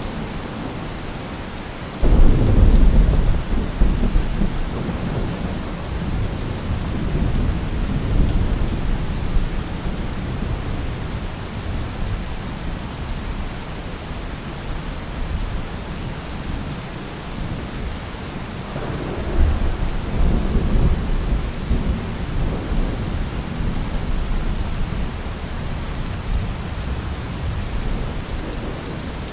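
Thunderstorm: steady heavy rain, with a sudden loud thunderclap about two seconds in that rolls off over several seconds, and a second, softer rumble of thunder about two-thirds of the way through.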